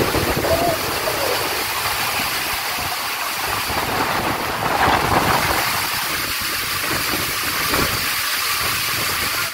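Heavy wind-driven rain pouring down, a steady rushing hiss, with a brief surge about five seconds in.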